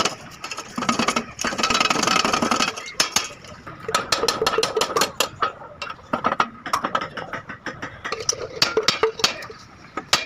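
Metal on steel: irregular sharp tapping and clinking, thickest from about three seconds in, with a faint ring after some strikes.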